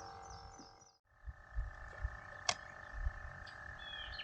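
Chorus of frogs trilling steadily, many held tones layered together, cutting out briefly about a second in and then resuming. There are a few low knocks, a sharp click, and short bird chirps near the end.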